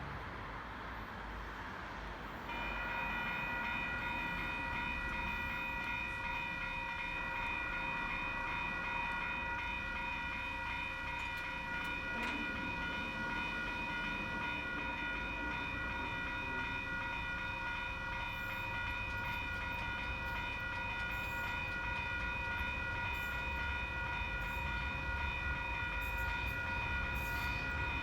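Level crossing's WCH electronic warning bells starting to ring about two and a half seconds in, then ringing on steadily as a rapid high-pitched electronic ding.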